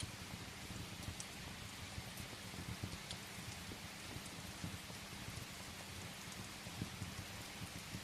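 Steady rain falling on a window, an even hiss with a low fluttering rumble underneath and a few faint sharp ticks.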